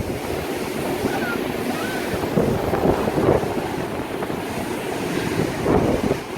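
Strong gusting wind buffeting the microphone in a windstorm, a continuous rushing roar with low rumbling blasts.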